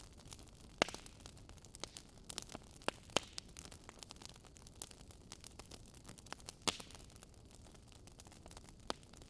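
Wood fire crackling: a steady low hiss with irregular sharp pops and snaps, the loudest about a second in, at about three seconds and at about six and a half seconds.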